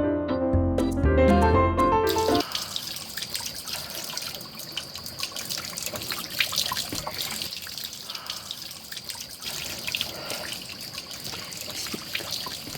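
Music for the first two seconds or so, then a rain-swollen mountain stream in a valley, flowing with a busy trickling and gurgling.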